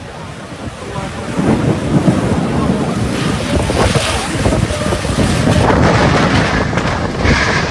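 Storm wind buffeting the microphone: a loud, gusty rushing noise that builds over the first second and a half and then stays up.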